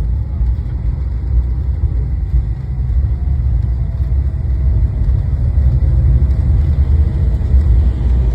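Cabin rumble inside an Embraer 175 airliner rolling on the ground after touchdown: a steady, deep roar of engine and wheel noise, slightly louder toward the end.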